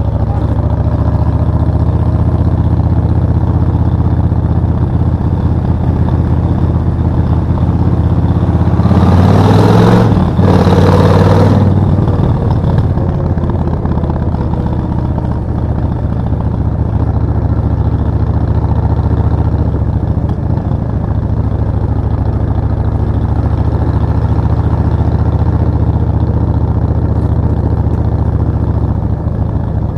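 Suzuki VS1400 Intruder's 45-degree V-twin running under way. About nine seconds in the throttle is opened and the pitch rises, with a brief break near ten seconds, and it grows louder for a few seconds before settling back to a steady cruise.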